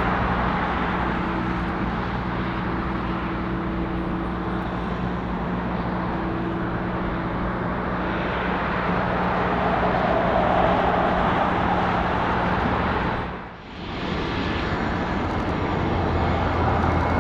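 Boeing 747-8 freighter's jet engines running at taxi power, a steady hum and whine. A cut about 13 seconds in brings in a different jet airliner's engines.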